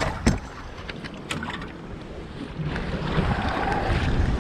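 Wind buffeting the microphone on an open fishing boat, with a sharp knock about a third of a second in and a few lighter clicks after it. The wind noise grows louder in the second half.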